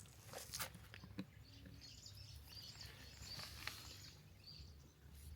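Near-silent background with a few faint, short, high bird chirps through the middle, and a few soft clicks.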